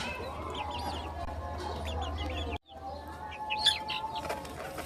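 Birds calling: many short, high chirping calls over a low steady hum, cut off abruptly for a moment about two and a half seconds in, with one louder call a second later.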